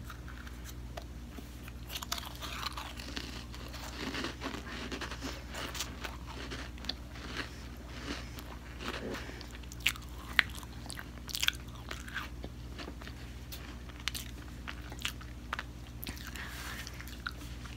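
Close-miked biting and chewing of crunchy small round biscuits: many sharp, crackly crunches with the mouth closed, the loudest about ten to eleven seconds in.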